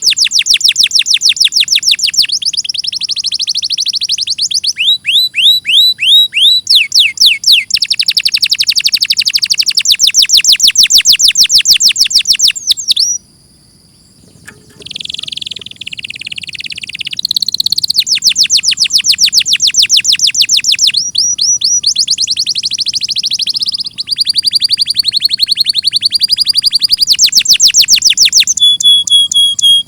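Domestic canary singing: long trains of rapid, high-pitched repeated notes, each trill switching to a new note type every second or two, with a brief pause about halfway through.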